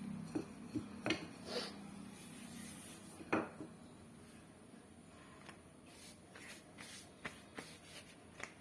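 Rolling pin and board clattering and rubbing as chapati dough is rolled out, with scattered knocks, the loudest about a third of the way through. A low hum fades out in the first couple of seconds.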